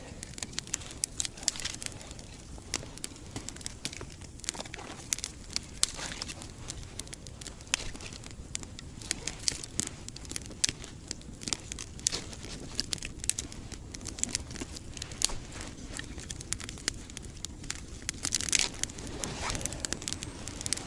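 Campfire crackling, with irregular sharp pops and snaps from the burning wood and a busier stretch of crackling near the end.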